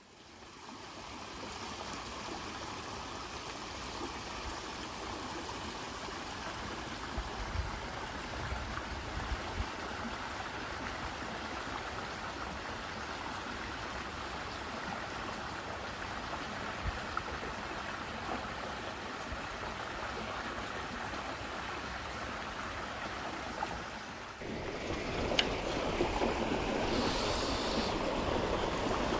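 Steady rush of flowing water in a stream or channel, becoming louder and fuller after a cut about 24 seconds in.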